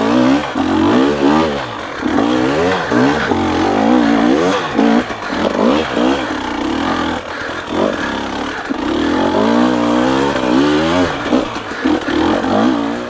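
Dirt bike engine revving up and down over and over, its pitch rising and falling with the throttle, as the bike fights its way up a steep hill.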